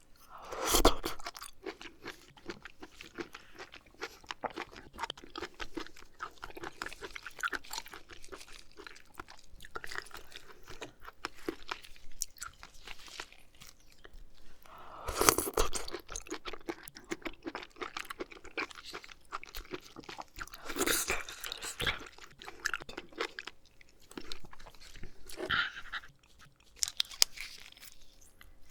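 Close-miked chewing of oysters: a steady run of soft, wet mouth sounds as the oysters are chewed, with louder bites about a second in, around halfway through and again a few seconds later.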